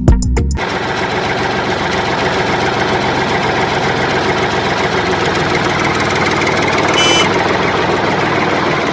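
Small motor of a homemade mini tractor running steadily with a fast buzzing rattle, starting as background music cuts off about half a second in. A brief high squeak about seven seconds in.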